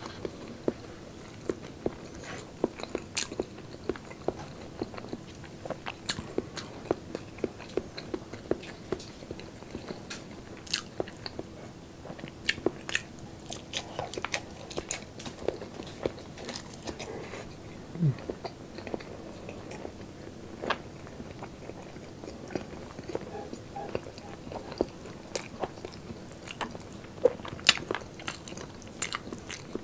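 Close-miked mukbang eating: a person chewing braised pork and boiled eggs with rice, with irregular wet smacks and clicks of the mouth.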